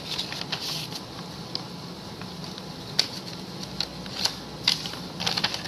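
A package being opened and handled: scattered clicks, taps and rustles of packaging, with a sharp click about three seconds in and a quick run of clicks near the end, over a faint steady low hum.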